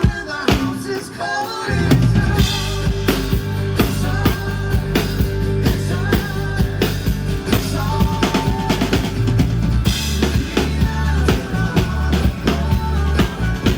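Live band music with a drum kit keeping a steady beat; a bass line and the full band come in about two seconds in.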